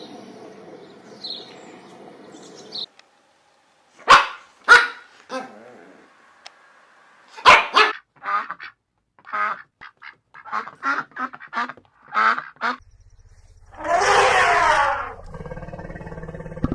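A dog barking, a few sharp separate barks, followed by a quick run of shorter animal calls and one loud, longer call near the end.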